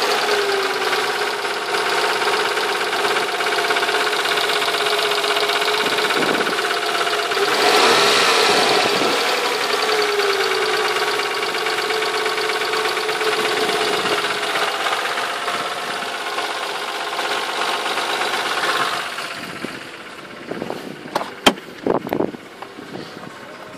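Nissan VQ20 2.0 V6 engine running with a knock, briefly revved up and falling back a few times; the knock is put down to a faulty mass air flow sensor with bad solder contacts. Near the end the engine sound drops away and a few sharp clicks follow.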